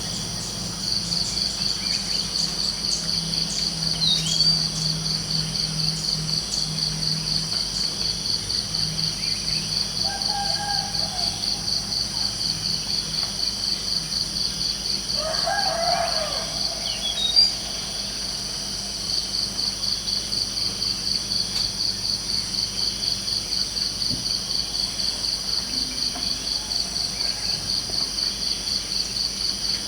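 Crickets chirping in a steady, fast-pulsing high trill, with a rooster crowing once about halfway through.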